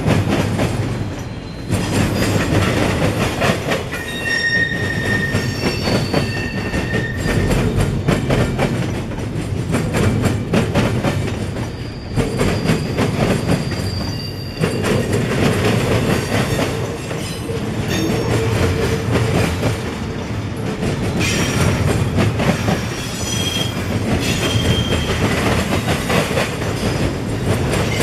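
Freight train rolling past, its cars clattering over the rail joints, with short high wheel squeals several times.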